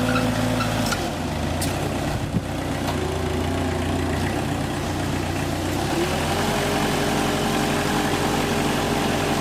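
An engine running steadily, with a sharp knock about two seconds in; its pitch rises a little about six seconds in.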